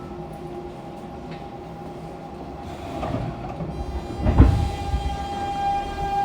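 Fukuoka City Subway 2000 series car with a Hitachi GTO-VVVF inverter, standing with a steady low hum, then starting off: a multi-tone inverter hum sets in a little under four seconds in, and about half a second later a loud clunk, typical of the line breaker closing as power is applied.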